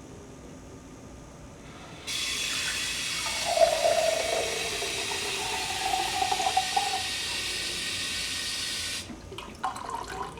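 Water gushing loudly with a steady rush, starting abruptly about two seconds in and cutting off sharply about seven seconds later.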